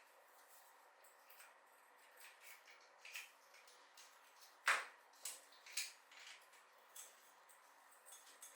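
Sparse light clicks and clinks of small hard objects being handled, with one sharper knock a little past halfway.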